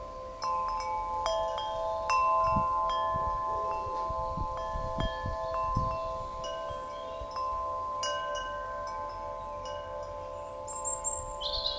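Large Nature's Melody wind chime with 3 cm-diameter tubes being struck again and again, its deep tones ringing on and overlapping.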